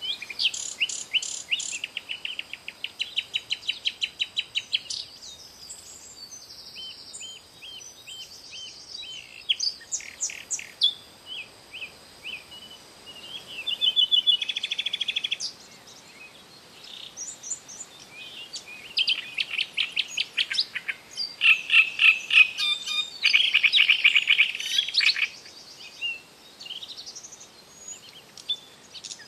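Songbirds singing: phrases of fast, evenly repeated high notes and scattered chirps, with short pauses between them. The calling grows busiest and loudest in the latter half.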